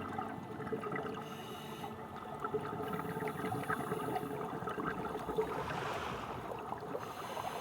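Water ambience: steady bubbling and gurgling, with faint steady tones running underneath.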